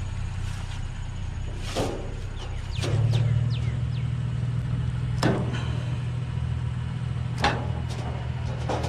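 A vehicle engine idling with a steady low hum that grows a little louder about three seconds in, with a few sharp metallic knocks, about three in all.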